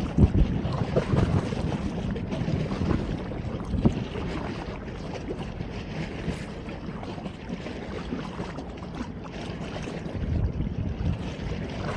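Wind buffeting the microphone: an irregular low rumble that swells and drops in gusts, heavier in the first second and again near the end.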